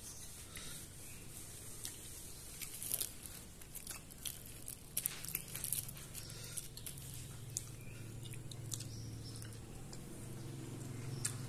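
Close-up chewing and crunching of food, with scattered crisp crunches through the first half. A low steady hum builds underneath from about halfway.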